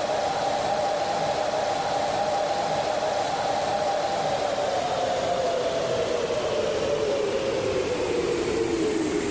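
GE9X turbofan running with a strong whine over a steady rush of noise. The whine holds steady, then slides down in pitch over the last few seconds.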